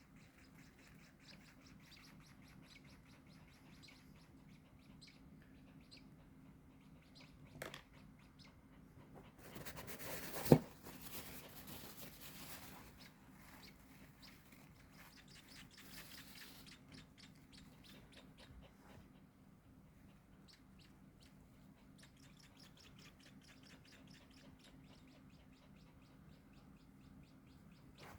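Baby birds cheeping faintly in quick runs of high, thin chirps. About ten seconds in there is a stretch of rustling with a single sharp knock, the loudest sound.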